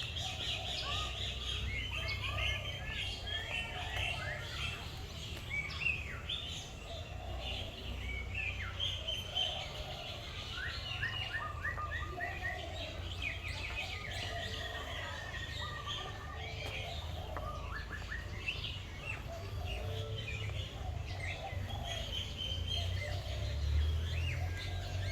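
Many birds chirping and calling at once, a dense run of short, overlapping high chirps with some lower calls mixed in, over a steady low rumble.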